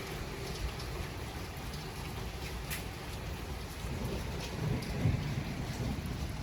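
Steady rain falling, with scattered drops ticking sharply close by. A low rumble swells about four seconds in and fades out over the next couple of seconds.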